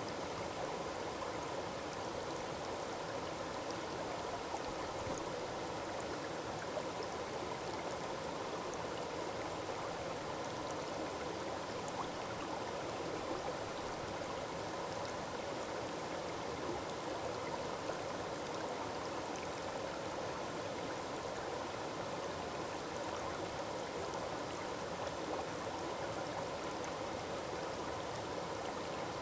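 Waterfall in a forest stream: water falling and rushing steadily, with a fine splashing of droplets over it.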